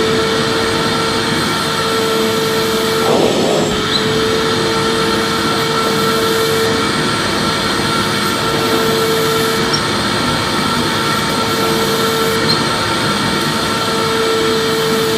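Vacuum cleaner running steadily: a constant motor whine over a rush of air, with a brief change in the airflow sound about three seconds in.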